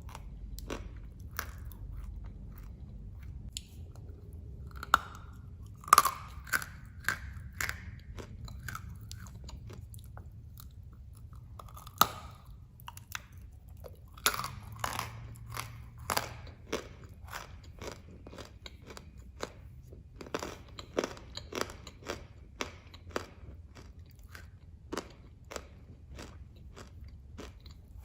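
Dry clay blocks being bitten and chewed close to the microphone: a continuous run of crisp crunching clicks, with several louder snapping bites in the first half.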